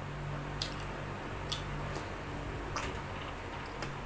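Four soft, short wet mouth clicks of chewing, spread out, over the steady hum of an electric fan.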